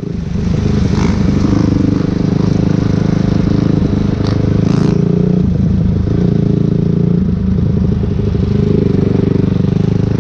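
Dirt bike engine idling steadily, with a few faint clicks about one second and four to five seconds in.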